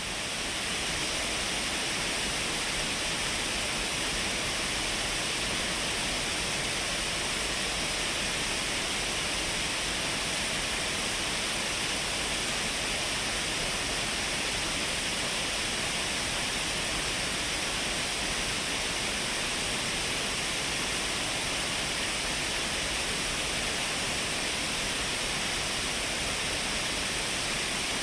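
Shiraito Falls' curtain of many thin cascades pouring over the cliff: a steady, unbroken rush of falling water, an even hiss that is strongest in the upper-middle pitches.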